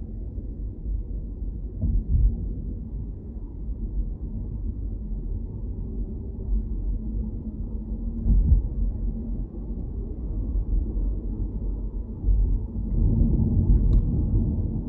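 Car on the move: steady low road and engine rumble, swelling louder a few times, with a faint click near the end.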